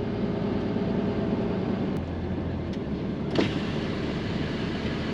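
Pickup truck's engine running at low speed, heard from inside the cab, with a steady low drone whose pitch shifts about two seconds in. A short sharp click or knock about two-thirds of the way through.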